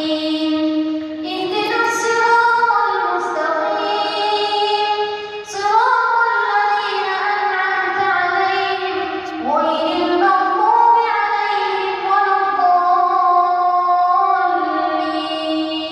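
A single voice reciting the Quran in a melodic, chanted style, holding long drawn-out notes with ornamented rises and falls in pitch.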